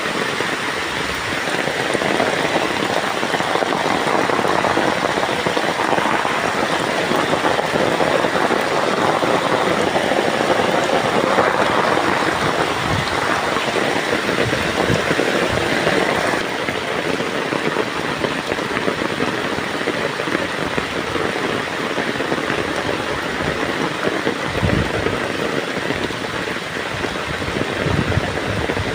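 Heavy downpour of rain: a steady, dense hiss of rain coming down hard, easing slightly about halfway through.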